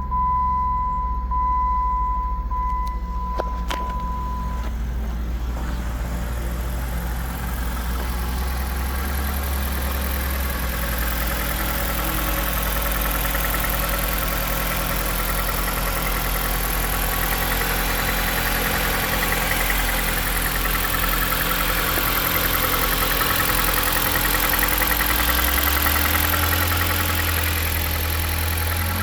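The 2016 Jeep Patriot's 2.0-litre four-cylinder engine idles steadily right after start-up. For the first few seconds a high warning chime beeps over it.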